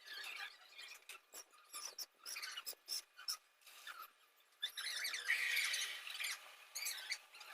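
Nestlings begging with rapid, high-pitched cheeping, rising to a louder, denser chorus about five seconds in.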